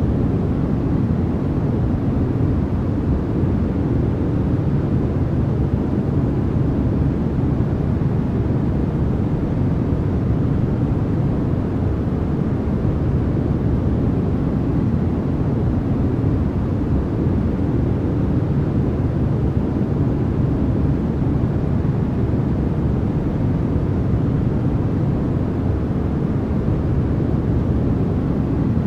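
Steady, unchanging sleep noise track of the kind sold as white noise, its energy mostly low, heard as a deep, even rush with no breaks.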